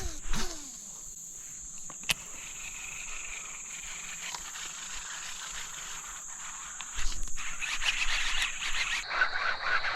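Frogs calling along a creek, the calls growing louder and denser about seven seconds in, over a steady high buzz of insects.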